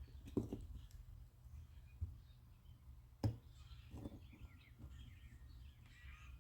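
Faint, sharp clicks and taps of small hand tools working on a car door lock cylinder, a few seconds apart, the loudest about three seconds in, with birds chirping faintly in the background and a low steady hum.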